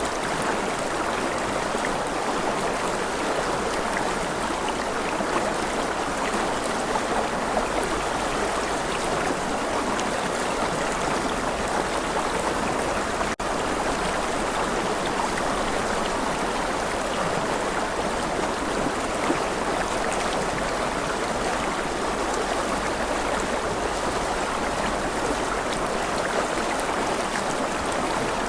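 A stream of flowing water running steadily, with one very brief dropout about halfway through.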